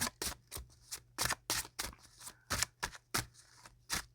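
A deck of tarot cards being shuffled and handled by hand: a run of short, papery snaps and flicks, about two or three a second.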